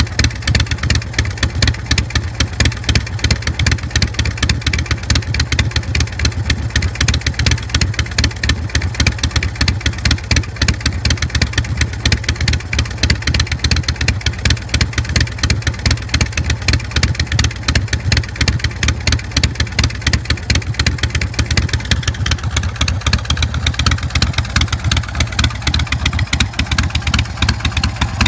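Carbureted 117 cubic inch S&S V-twin of a 2006 Big Dog K9 chopper running steadily through a Vance & Hines Big Radius exhaust, with an even, rapid pulse of firing strokes.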